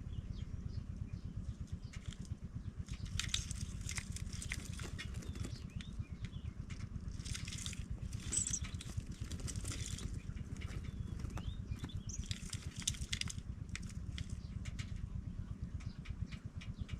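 Pipit nestlings stirring in the nest: three bursts of rustling and wing-fluttering, with faint thin chirps, over a steady low rumble.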